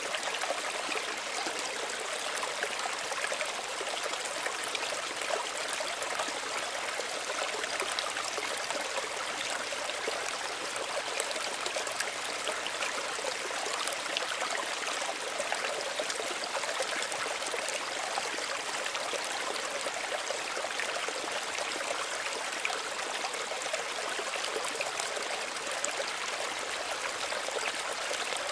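Small stream running steadily, water trickling and splashing over rocks with a bright, even rush.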